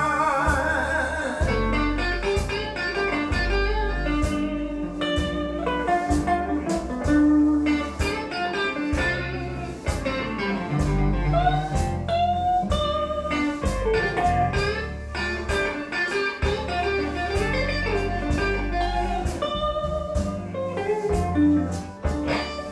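Instrumental break in a slow blues ballad: an electric guitar solo with bent notes, over bass and drums.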